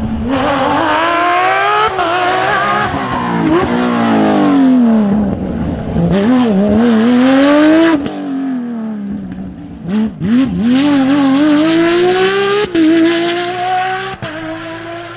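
Rally car engine revving hard, its pitch climbing and then dropping again several times through gear changes and lifts, with a sharp drop about two-thirds of the way through.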